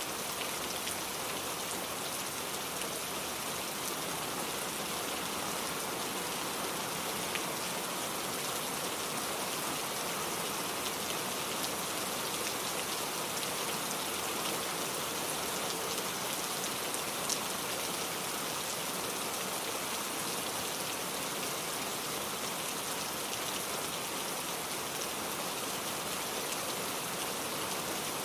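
Steady rain falling, an even hiss with a few sharp drop ticks, one more distinct about seventeen seconds in.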